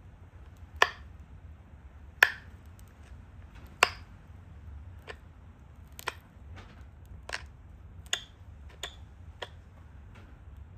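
Pressure flaking a stone Dalton point: about ten sharp clicks, roughly one a second, as small flakes snap off the edge under the flaker. The loudest snaps come in the first four seconds.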